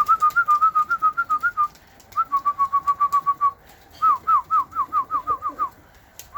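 Loud, rapid whistling: clear notes repeated about seven or eight a second in three phrases, the first wavering, the second short and level, the third sharply falling, with a brief pause between phrases.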